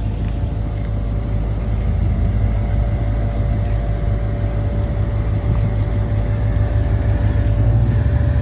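Supercharged 6.2-litre Hemi V8 of a Dodge Challenger SRT Demon 170 idling with a deep, steady rumble, growing louder near the end.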